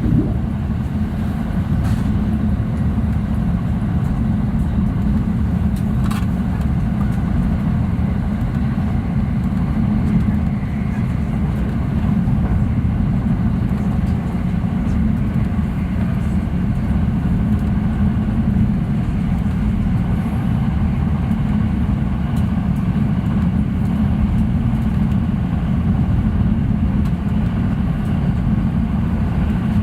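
JR East E657 series electric limited express train running at speed, heard from inside: a steady low rumble of wheels and running gear on the rails. Faint clicks come about two and six seconds in.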